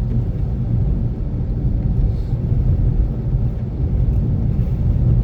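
Steady low rumble of road and drivetrain noise inside the cabin of a moving Infiniti Q50 Red Sport 400.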